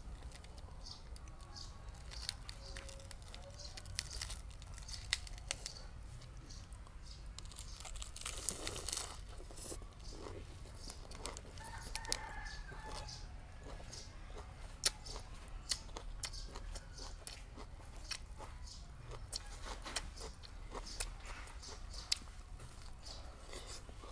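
Close-miked crunching and chewing of crisp raw vegetables wrapped in lettuce, with many sharp crisp crunches scattered through. A chicken calls in the background about halfway through.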